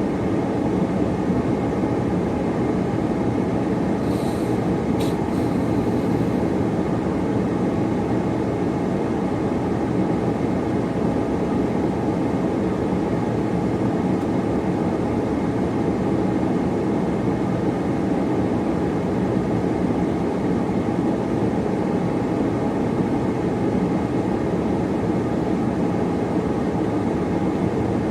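Steady rumble of a car driving, road and engine noise from inside the cabin, with a single brief click about five seconds in.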